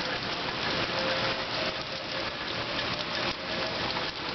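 Steady heavy rain falling during a thunderstorm, with the faint steady tone of a distant outdoor tornado warning siren underneath.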